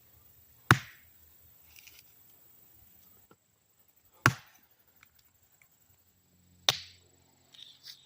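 Three single axe blows splitting a piece of cedar, spaced a few seconds apart, each a sharp chop into the wood.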